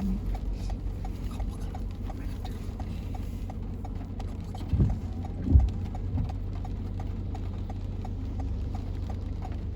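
Car turn-signal indicator ticking steadily, about three ticks a second, over the low rumble of the car cabin. Two dull thumps come about five seconds in.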